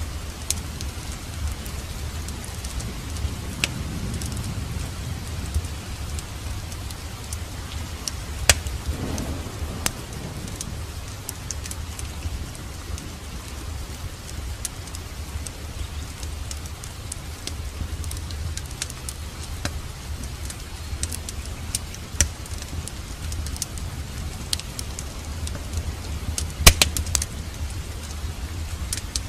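Wood fire crackling in a fireplace, with sharp pops scattered throughout, two louder ones about eight seconds in and near the end, over steady rain and a low rumble.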